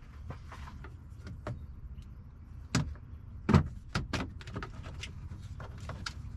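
Parts being handled during a hands-on teardown: a string of sharp clicks and knocks, loudest about three and a half seconds in, over a steady low hum.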